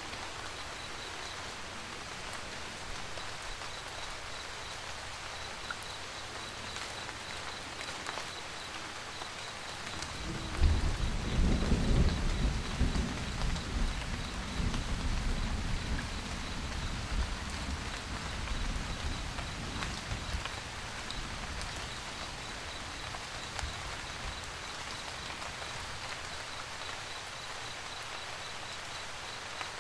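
Steady rain pattering, with a roll of thunder that breaks in about ten seconds in, rumbles loudest for a couple of seconds and dies away over the next several seconds.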